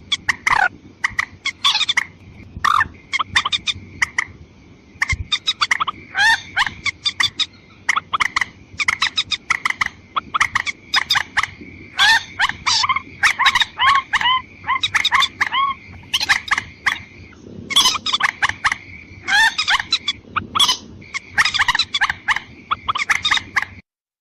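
Recorded lure call of a mandar rail (waterhen), played back to draw wild birds in: rapid runs of short, harsh repeated call notes in bursts with brief gaps between. The calls cut off suddenly just before the end.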